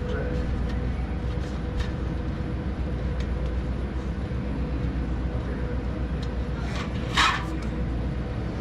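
Steady low rumble of a car running, heard from inside the cabin, with one short loud rustle-like burst about seven seconds in.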